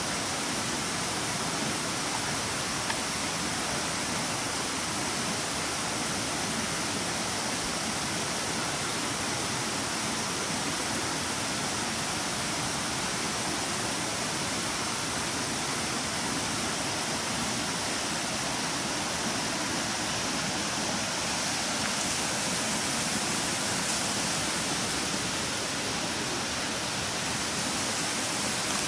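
Steady, even rushing of water, like a stream or small waterfall, that starts and stops abruptly.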